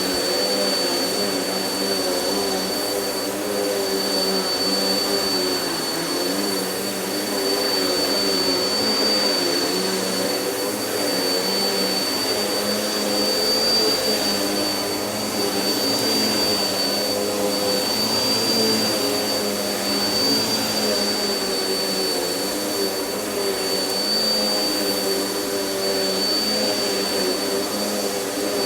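Vacuum cleaner running steadily: a constant motor hum with a thin, high whine over the rush of air, its pitch wavering only slightly.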